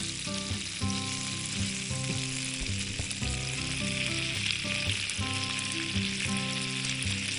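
Food sizzling steadily in a hot pan, with acoustic guitar background music playing underneath.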